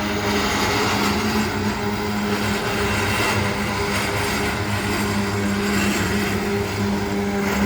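Diesel train passing: a steady engine drone over a broad rumble and rail noise.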